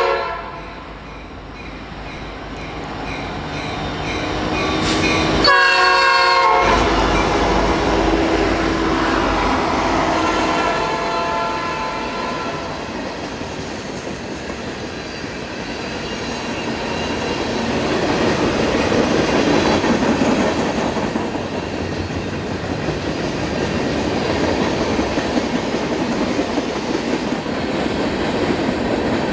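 Norfolk Southern train approaching and passing. A locomotive air horn sounds about six seconds in, then the train rolls by with steady wheel noise on the rails.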